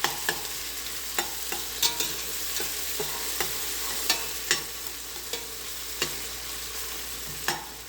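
Ginger-garlic-green chili paste sizzling in hot ghee and oil in a pressure cooker, with irregular clicks and scrapes of a spoon against the pot as it is stirred.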